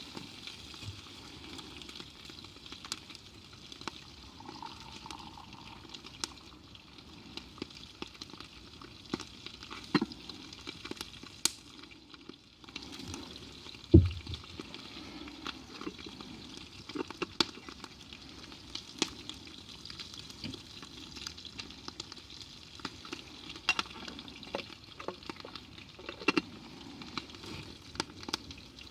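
Food frying over a campfire: a steady sizzle with scattered crackles and sharp clicks throughout, and one loud knock about halfway through.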